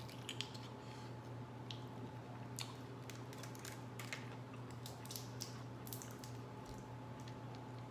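Close-up eating sounds: scattered small wet clicks and crackles of chewing and mouth noise, over a steady low hum.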